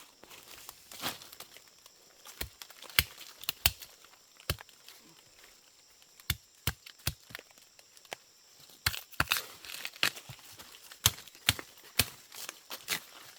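Irregular sharp snaps and crackles with some tearing, the sound of dry plant stalks and leaves being broken and handled.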